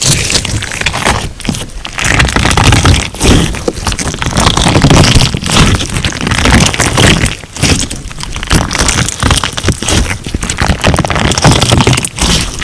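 Crunch slime being squeezed and kneaded by hand: a dense run of crackling and popping, easing off briefly between squeezes a few times.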